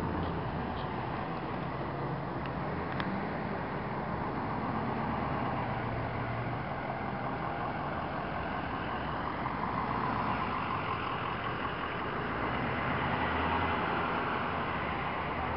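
Fire trucks driving by, their engines running steadily.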